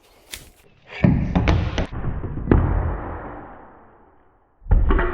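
A heavy slam about a second in, with a couple more knocks and a long low rumble that dies away over about three seconds: something heavy has come down hard on the car. Near the end a new sound with a steady tone starts.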